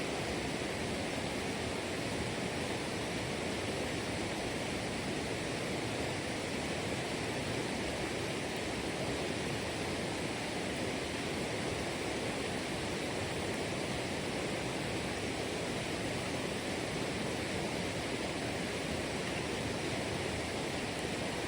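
Steady rush of running water, like a stream or small waterfall, even and unbroken throughout.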